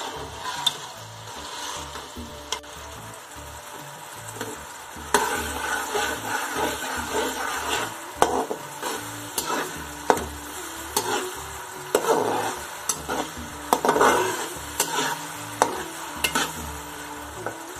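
Chopped onions and tomatoes sizzling in hot oil in a metal karahi, stirred with a slotted metal spatula that scrapes and clicks against the pan. The scraping and clicking grow busier about five seconds in.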